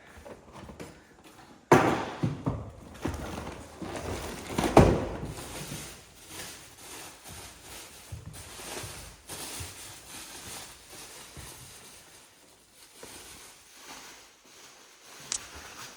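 Knocks and clatter of a mountain bike and its parts being handled while it is unpacked from a bike bag, with two sharp knocks about two and five seconds in, then lighter rattling and rustling.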